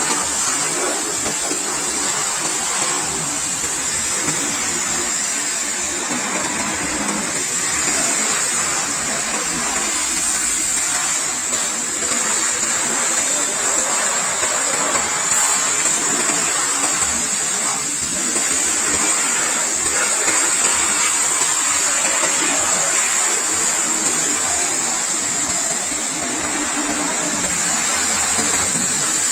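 Pressure washer spraying water, a steady hiss with no breaks.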